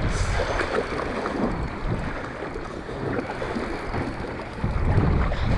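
Gusty wind buffeting the microphone, easing in the middle and getting louder again near the end.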